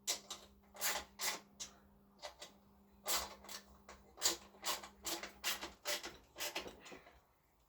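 Small parts and bolts being handled and sorted through by hand: a run of irregular clicks, taps and rustles, with a faint steady hum underneath that stops about six seconds in.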